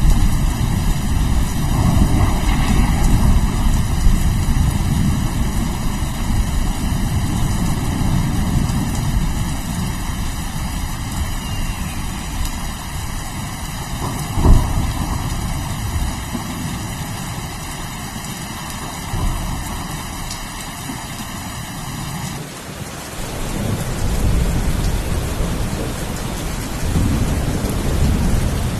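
Steady rain with low rolling thunder rumbles and one sharper thunderclap about halfway. Near the end the rain's texture changes abruptly.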